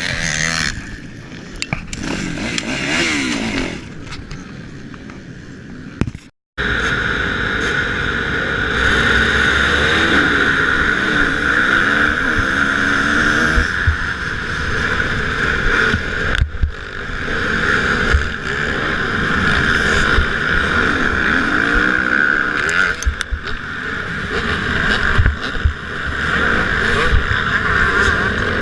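Motocross bikes racing, engines revving up and down as riders work the throttle through the track. The sound drops out for a moment about six seconds in, then comes back louder and more steady.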